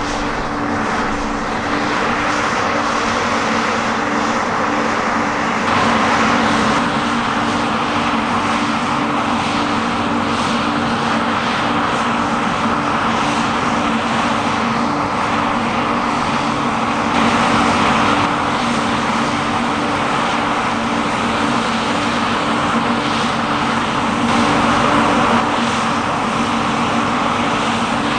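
Large diesel harvest machinery running steadily under load: a steady engine hum under a broad mechanical rush, a little louder for moments a few times.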